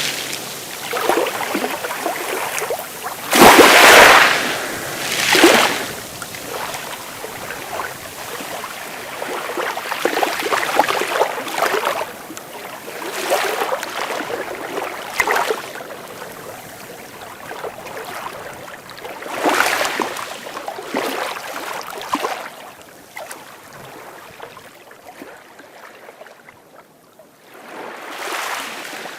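Sea waves breaking and washing up a beach in a string of hissing surges, the strongest about four seconds in, easing to a lull near the end before the next wave builds.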